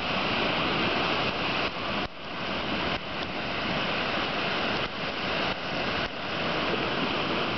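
Steady rushing noise of wind and surf breaking on the shore, with a few brief dips in level.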